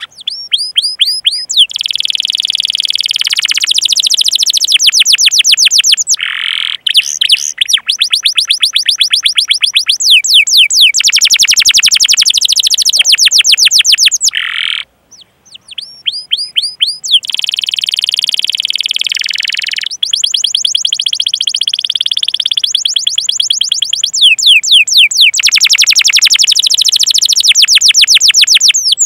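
Domestic canary singing long, fast rolling trills ('ngerol') of rapidly repeated sweeping chirps, phrase after phrase with only short pauses, the longest about halfway through.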